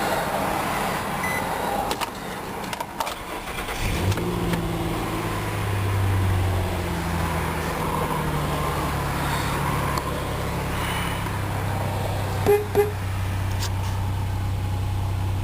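A few clicks, then about four seconds in the 2005 Nissan Pathfinder's 4.0-litre V6 starts and settles into a steady idle. Two short beeps sound near the end.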